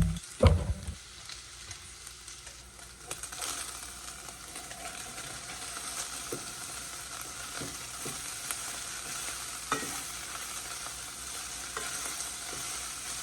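Chicken pieces frying in oil in a pot, a steady sizzle that builds about three seconds in, with a few sharp clicks of the stirring utensil against the pot. A low thump about half a second in.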